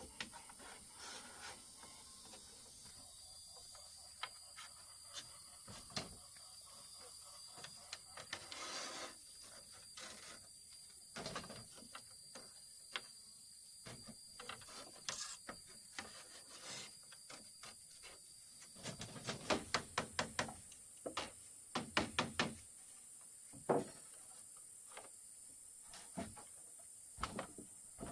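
Scattered knocks and clicks of bamboo and wood being handled and worked, with a run of quick taps about two-thirds of the way through. A steady faint high hiss lies underneath.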